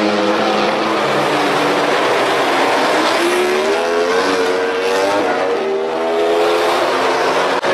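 MotoGP racing motorcycles' 1000 cc four-stroke engines running at high revs on track. The pitch climbs and steps as the riders shift gears, then falls away, with more than one bike heard at once. The sound cuts out for a moment just before the end.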